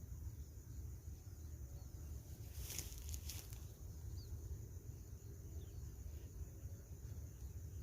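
Rice-paddy ambience: a steady high insect drone over low wind rumble, with a brief rustle about three seconds in.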